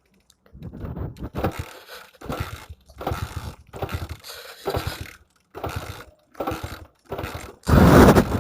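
Small motorcycle engine being cranked over and over in short bursts, about one a second, without catching: it has run out of petrol and stalled. The last attempt, near the end, is the loudest.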